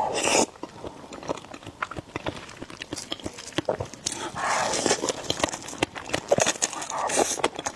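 Close-miked eating of noodles: wet chewing and mouth clicks throughout, with noisy slurps about four to five seconds in and again near the end.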